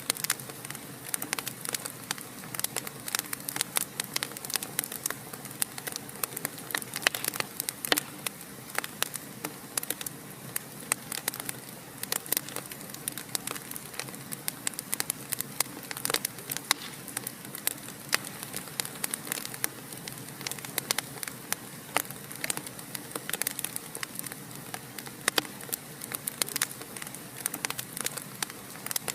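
Wood fire in a fireplace crackling: frequent sharp, irregular pops and snaps over a steady soft hiss.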